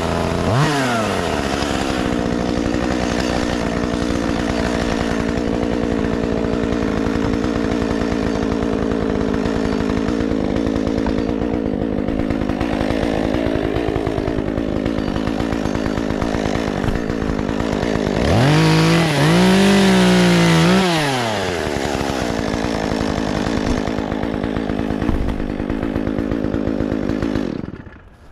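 Gas chainsaw running steadily, then revved hard up and down a few times about two-thirds of the way through, before it stops abruptly near the end.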